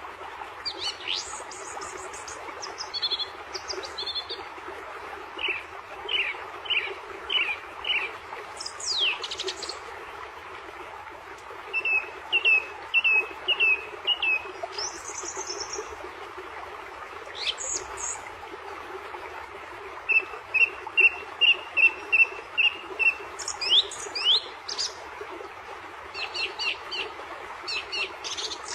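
Small birds chirping and calling, with varied calls: high sweeping notes, and quick runs of short repeated chirps, the loudest run near the end. A steady background hiss runs underneath.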